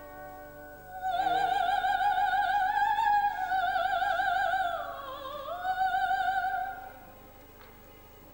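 Operatic soprano singing a long high vocal line with wide vibrato, entering about a second in over a soft held instrumental chord. Her voice slides down and back up about five seconds in and stops near the end, leaving only quiet accompaniment.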